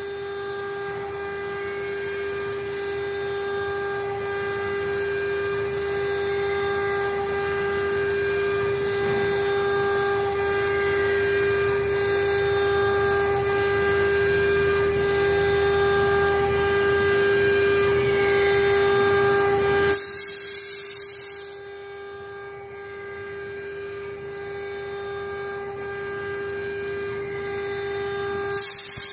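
CNC router spindle running with a steady high-pitched whine over the noise of the bit cutting wood. About two-thirds through there is a short hiss, and the sound then continues noticeably quieter.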